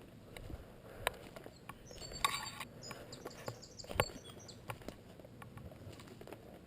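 A few sharp clicks or snaps, the loudest about four seconds in, with a bird chirping briefly a couple of seconds in.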